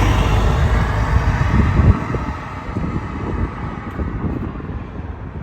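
Low vehicle engine rumble that drops away about two seconds in, leaving quieter outdoor noise with some wind on the microphone.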